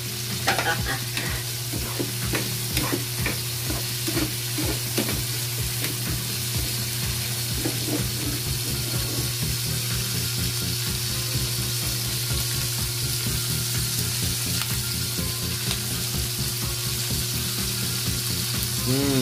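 Onions, tomatoes and green chilies sautéing in hot oil in a pan, a steady sizzle with scattered pops and crackles in the first few seconds. A steady low hum runs underneath.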